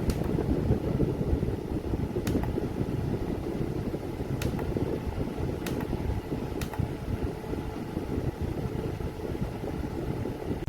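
KITWLEMEN rechargeable camping fan running, a steady, uneven low rumble of moving air, with a few faint clicks.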